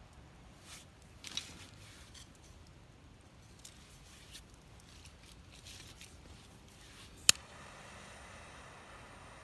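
Wood fire crackling with scattered small pops and one loud sharp crack about seven seconds in.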